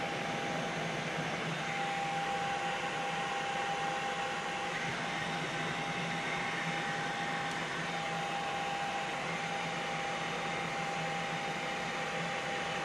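Steady drone of a news helicopter's engine and rotors, with a constant high whine running through it.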